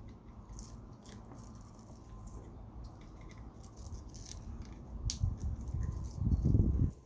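Metal tools working copper, with light scattered clicks and scraping. A louder low rumble of handling comes in after about five seconds and cuts off suddenly near the end.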